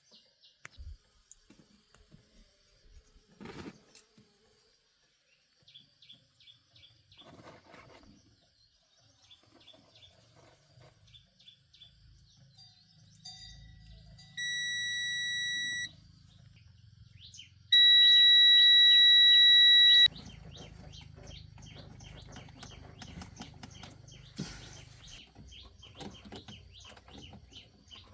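Two long, steady, high-pitched electronic beeps, the second longer and louder, over repeated bird chirps and a low steady hum.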